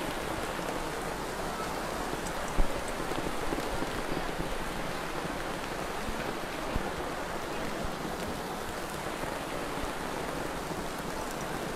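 Steady rain falling as an even hiss, with one brief knock about two and a half seconds in.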